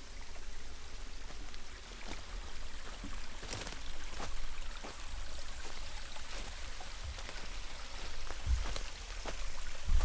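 Steady rush of a nearby river in rain, with a low rumble underneath and scattered light ticks and taps throughout.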